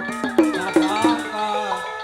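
Sundanese jaipongan music: a gamelan ensemble playing, with drum strokes about two or three a second whose pitch slides down after each hit, under a wavering melody line.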